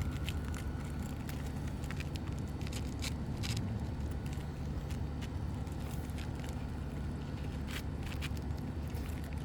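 Steady low rumble, with a few faint crackles and taps of asphalt shingles being handled and laid one on top of another.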